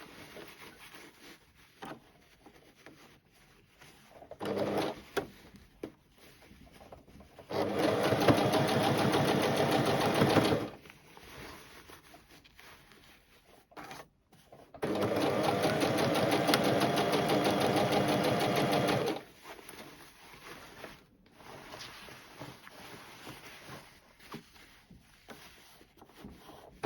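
Sewing machine stitching in two runs of about three and four seconds, with a brief burst before them and faint clicks in the pauses.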